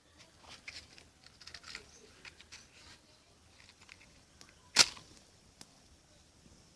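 Small campfire just catching on fire-starter tablets, crackling with scattered small pops, then one loud sharp snap just under five seconds in and a smaller one shortly after.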